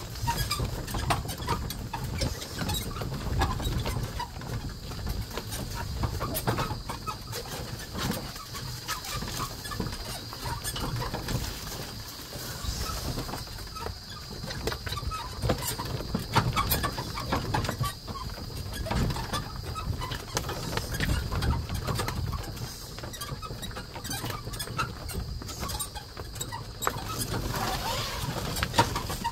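Carabao-drawn cart rolling over a rough track: irregular clatter and knocking from the wheels and wooden frame over a low rumble, with a steady thin high tone throughout.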